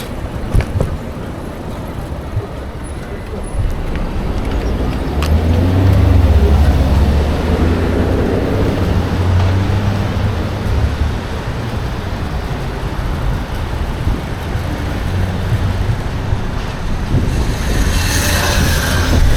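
Street traffic heard from a moving bicycle, with wind rumbling heavily on the microphone, strongest about a third of the way in. A brighter hiss comes in near the end.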